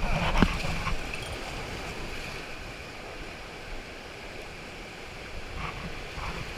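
Rushing river water around an inflatable raft going through rapids, a steady hiss and churn. There are a few knocks and splashes in the first half second.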